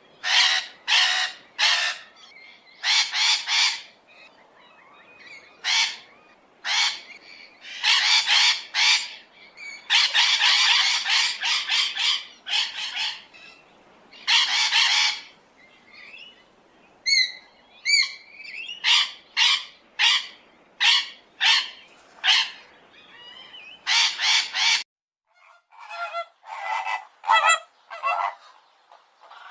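Birds calling harshly, one loud squawking or honking call after another, some short and some held for a second or more, with a quick run of whistled, sliding notes about halfway through. A few seconds before the end the background hiss drops out suddenly and a fresh series of shorter calls begins.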